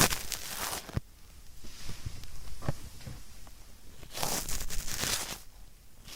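Ear-cleaning tool scraping and rubbing inside a microphone's ear canal. It comes as scratchy, crackling strokes: a loud bout at the start, softer scratching after it, and a second loud bout about four seconds in.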